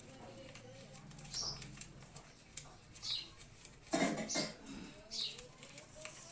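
Small birds chirping: short high chirps every second or two, with one louder, fuller cry about four seconds in.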